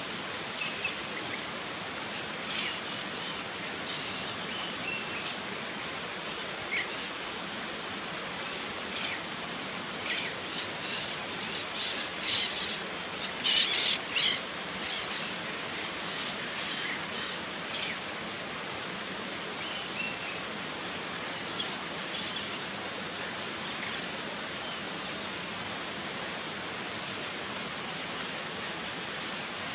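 Wild birds calling over a steady background hiss: scattered short high chirps, then a rapid, high trill of about ten quick notes a second, the loudest sound, about sixteen seconds in.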